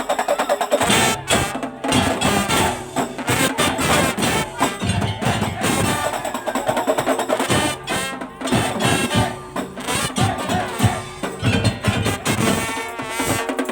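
Madurese daul (tongtong) ensemble playing a lively piece: bamboo slit drums and drums keep a dense beat under a pitched melody line.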